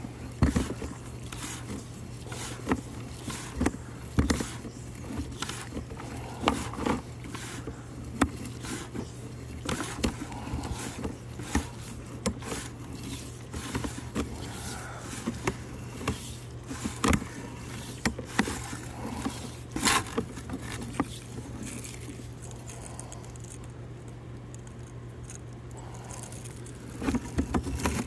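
Scattered clicks, knocks and scrapes of equipment being handled, over a steady low hum.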